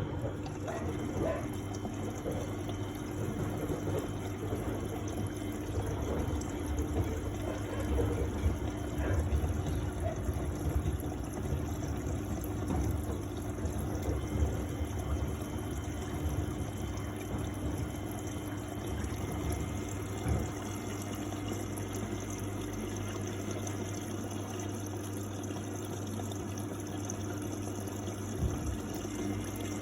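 1999 Miele Novotronic W828 washing machine mid-cycle, with water sloshing and flowing through it over a steady pump hum. The rumble is rougher for the first two-thirds and evens out toward the end.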